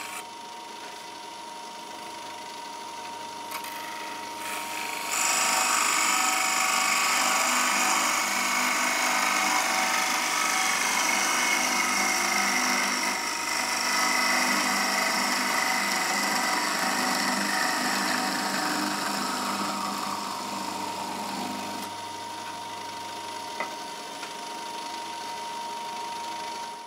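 Wood lathe running while a turning tool cuts a spinning pine blank. A steady motor whine is joined by loud rasping cutting noise about five seconds in, which eases off in the later part with a falling tone before the sound cuts off abruptly.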